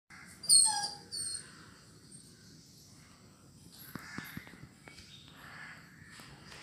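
A bird calls twice in quick succession, two short loud cries, followed by faint scattered clicks over a low outdoor background.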